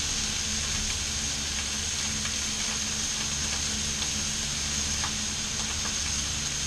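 Salmon fillets, chicken breast and vegetables sizzling steadily on a hot griddle, with a few faint light clicks of a metal spatula.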